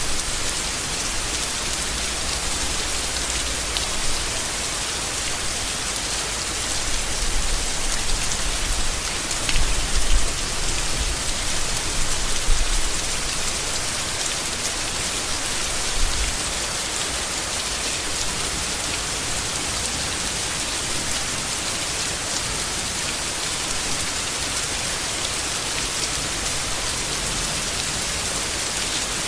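Steady heavy rain falling on leaves, an even wash of drops. A few brief low rumbles come and go in the middle.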